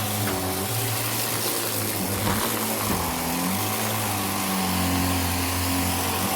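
Vacuum cleaner running steadily: a rushing hiss of airflow with a constant whine, over a lower hum that shifts in pitch now and then.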